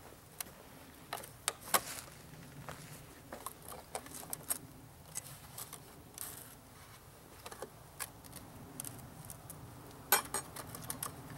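Clinks, taps and scrapes of a bee package being worked open, the metal syrup can being lifted out, over a faint low steady hum. The clicks are scattered, with the loudest knocks about two seconds in and near the end.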